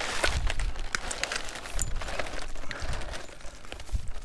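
Scattered light clicks, knocks and rustling of salvaged junk being handled and picked up, over a low rumble.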